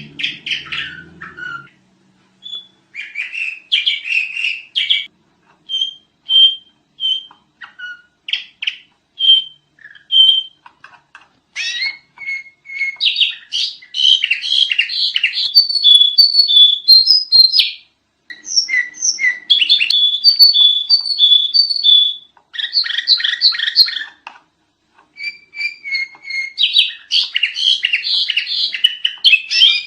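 Sooty-headed bulbul (kutilang) singing busily: rapid chirps and clear whistled notes, coming in dense runs of several seconds broken by short pauses.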